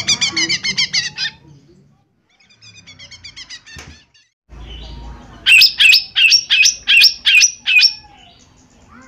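Cucak ijo mini (small green leafbird) singing: a fast, chirping trill, a brief pause and a softer trill, then a string of about eight loud, sharp notes at roughly three a second before it fades.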